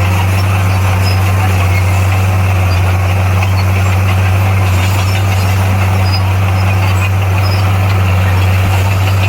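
Heavy diesel engine of earthmoving equipment running steadily at a constant speed, with a deep unchanging hum.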